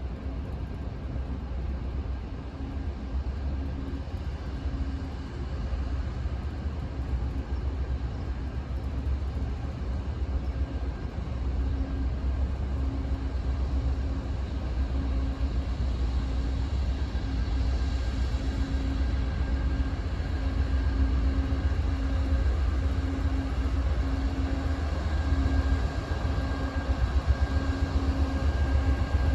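A train approaching: a steady low rumble that grows gradually louder, with a faint wavering hum above it.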